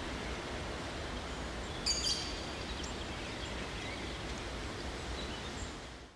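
Forest ambience: small birds chirping over a steady rushing hiss, with one sharper, brighter bird call about two seconds in. The sound fades out at the end.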